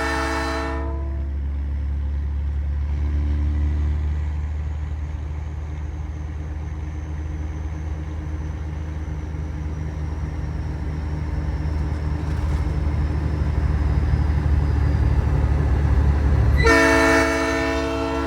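A Nathan Airchime P3 three-chime train horn on a semi truck sounds a chord that cuts off about a second in. The truck's diesel engine drone then builds under it. The horn blasts again near the end and holds.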